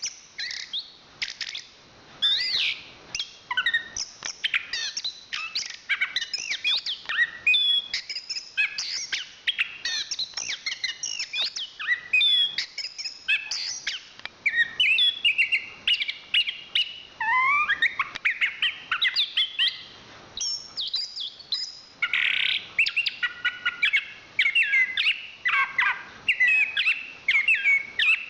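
Chestnut-capped thrush (anis kembang) singing a long, unbroken song of rapid, varied whistled notes, trills and quick pitch glides.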